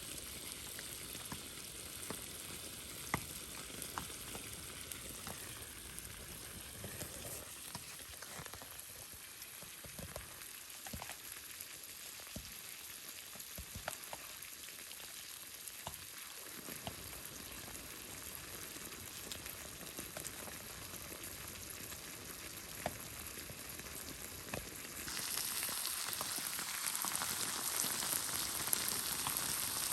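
Pork and kimchi frying in a pan over a campfire: a steady sizzle with scattered small pops. The sizzle turns louder and brighter about five seconds before the end.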